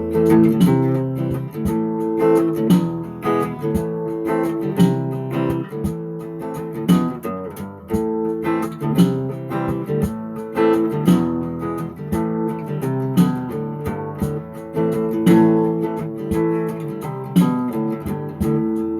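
Guitar strummed in a steady rhythm, playing the instrumental introduction of a song.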